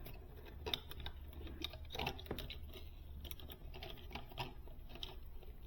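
Small irregular clicks and ticks of thermostat wires and their connectors being handled while being joined by hand.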